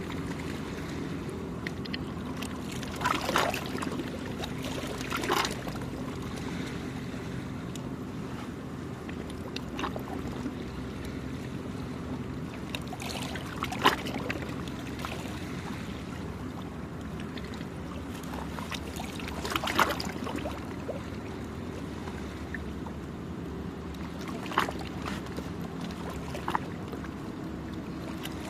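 Small sea waves lapping at the shore, with a sharp slap or splash every few seconds, over a steady low engine drone.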